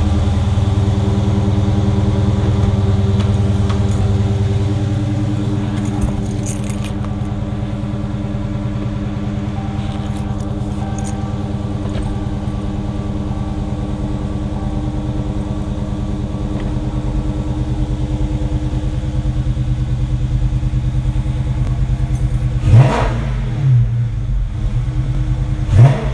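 2016 Dodge Charger Scat Pack's 6.4-litre HEMI V8 running on a cold start through Flowmaster Super 10 mufflers: a high cold idle that eases down a few seconds in, then settles steady. Near the end the throttle is blipped twice in quick revs.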